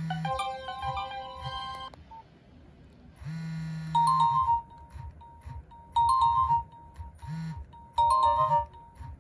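Nokia 1112 phone speaker playing built-in alert tones: a quick melodic run of beeps, then a short buzzy tone, then a brief tone pattern repeating about every two seconds.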